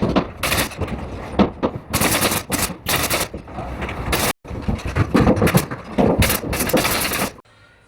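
Pneumatic nail gun firing in quick runs of sharp shots. The sound breaks off for a moment about four seconds in and stops suddenly near the end.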